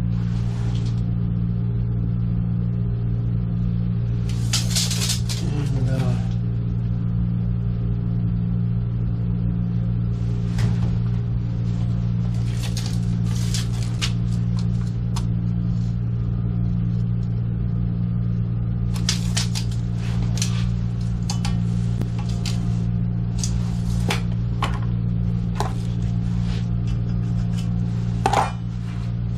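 A steady low mechanical hum with intermittent clunks, scrapes and rustles of hand work on the water-heater plumbing.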